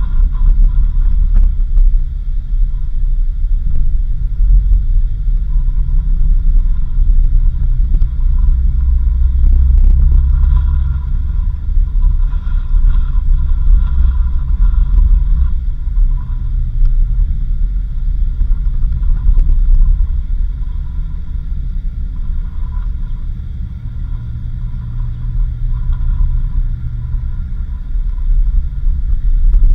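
Steady low rumble of a vehicle on the move: engine and road noise, swelling and easing a little in loudness.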